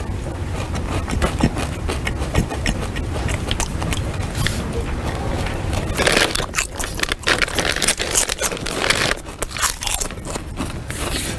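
A person eating noisily at close range: loud crunching chewing made of many sharp crackles, with louder flurries about six seconds in and again near the end.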